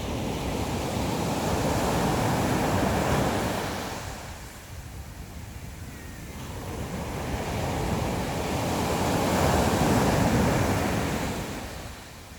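Sea surf: two waves breaking and washing in, each a swell of rushing water that builds and then fades, the second coming about eight seconds after the first.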